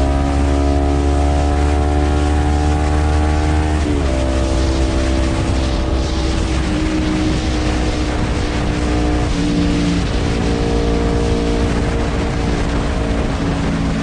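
Honda CBR250RR motorcycle engine breathing through an R9 H2 titanium full-system exhaust, holding a steady note that drops in pitch about four seconds in and shifts again a few more times.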